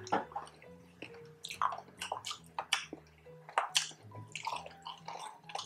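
Close-up chewing of crispy fried pork, a string of crunches and wet mouth clicks, over quiet background music.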